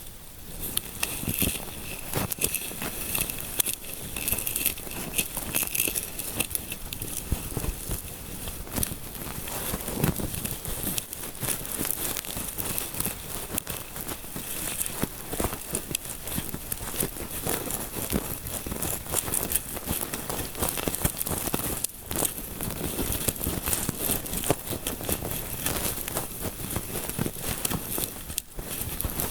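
ASMR scalp massage sounds: fingers rubbing and scratching through hair close to the microphone, a dense, continuous crinkling crackle with two brief breaks in the last third.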